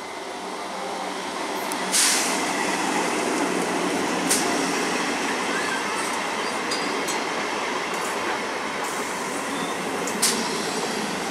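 Old green EMU electric local train running past close by: a steady rumble of wheels on the rails that grows louder over the first couple of seconds. Sharp knocks come about two seconds in, again around four seconds in, and near the end.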